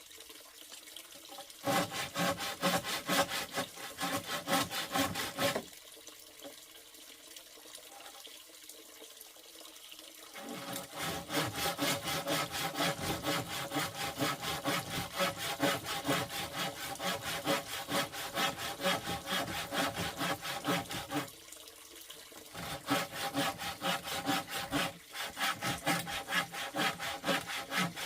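Hand saw cutting through wood in quick, even back-and-forth strokes. It goes in three spells: a short one near the start, a long steady run through the middle, and another near the end, with brief pauses between them.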